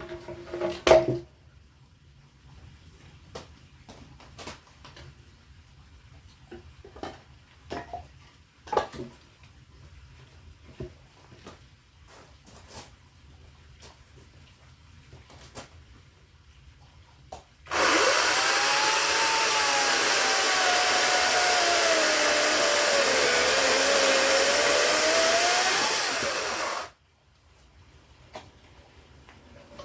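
Scattered knocks and clicks of wood being handled, then about eighteen seconds in a power saw runs for about nine seconds cutting firewood. Its pitch dips and climbs again before it cuts off abruptly.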